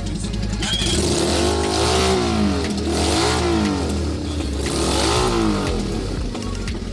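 A motorcycle engine revved three times, each rev rising in pitch and falling back, with a steady low hum underneath.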